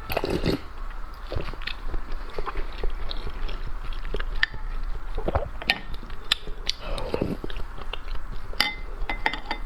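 Close-up eating sounds: a person biting and chewing food, with irregular sharp crunches and smacks throughout.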